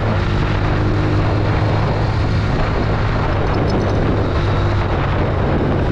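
Honda CB150F's single-cylinder four-stroke engine running at a steady speed while the motorcycle is ridden, with a continuous rush of wind and road noise; the engine note holds even, with no revving or gear changes.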